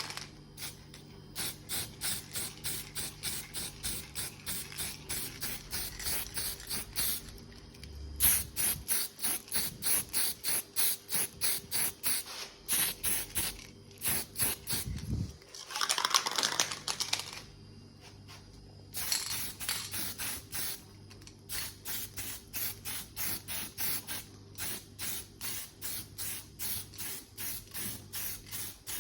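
Aerosol spray paint can hissing in a rapid run of short, evenly spaced bursts, a few each second, with brief pauses. About sixteen seconds in there is one longer continuous spray.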